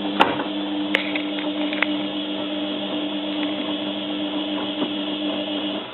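Zanussi FLA1002W washing machine's drum motor running steadily during a heated wash, turning the drum with a duvet inside, with a steady two-tone hum and a few sharp clicks early on. It stops just before the end, as the drum pauses between turns.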